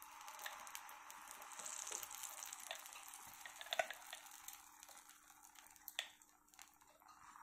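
Banana paste sizzling faintly as it is poured into hot ghee in a kadai, the sizzle strongest in the first few seconds and dying down after about four seconds, with a few light clicks.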